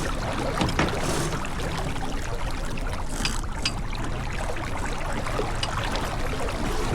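Steady rush of water and wind aboard a J/24 sailboat under way, with a few light clicks over it.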